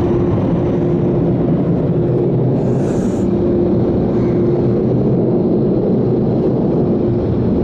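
Ryko Radius touch-free car wash air dryers running at full blast: a loud, steady rush of air with a steady tone under it.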